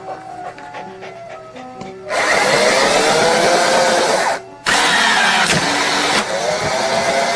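A small motor whirring loudly in two long spells with a short break between them, its pitch sagging and rising. Soft music plays before it starts.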